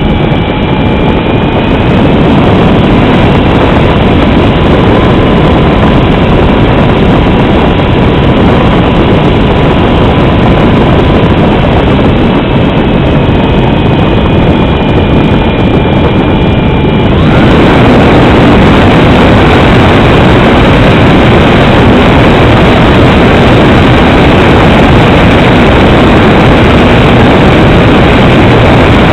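Cessna 310's engines and propellers running in a steady, loud drone with rushing air noise and a faint steady whine on top; about seventeen seconds in the sound changes abruptly and the whine drops out.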